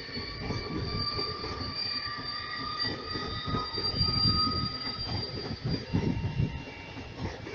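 PKP Intercity ED250 Pendolino high-speed train passing: its bogies rumble with irregular thumps, over several steady high-pitched squealing tones that fade out about six seconds in.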